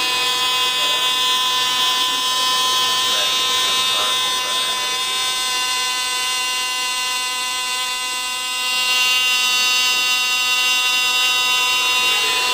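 Small electric motor of a homemade robotic vacuum cleaner running with a steady buzz. It dips slightly and then gets a little louder about two-thirds of the way through.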